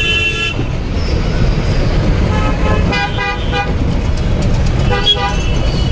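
Busy street traffic with vehicle horns honking: a short toot at the start, a quick run of several short toots in the middle, and another horn near the end, over a steady rumble of engines and road noise.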